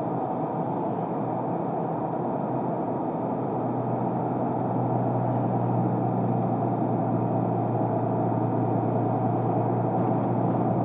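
Car driving noise heard from inside the cabin: a steady engine hum over road and tyre noise, growing a little louder about four to five seconds in.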